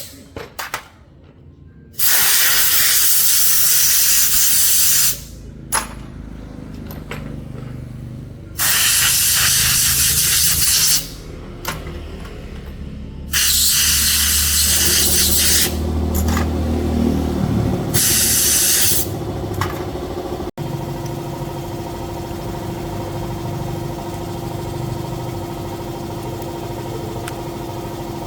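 Several loud bursts of hissing spray, each one to three seconds long, over a low rumble. From about twenty seconds in, a motorcycle engine idles steadily.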